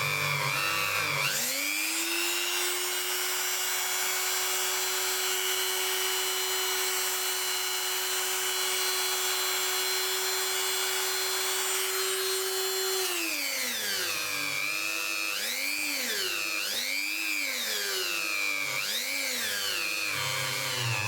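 Small electric power-tool motor spinning up and running at a steady pitch. In the second half its pitch sags and recovers several times, then rises again near the end.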